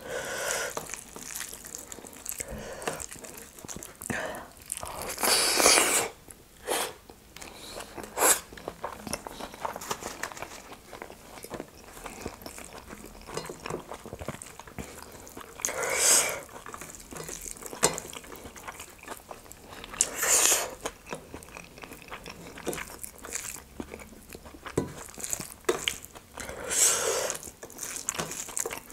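Close-miked eating sounds of rice with nettle dal eaten by hand: chewing and mouth clicks throughout, with fingers mixing the rice on a steel plate. Four louder sounds lasting about a second each stand out.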